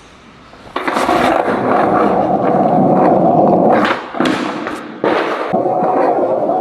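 Skateboard wheels rolling over rough, wet tarmac, starting suddenly about a second in. Around four seconds in the rolling breaks off with a few sharp clacks of the board, a pop and landing, then the rolling picks up again.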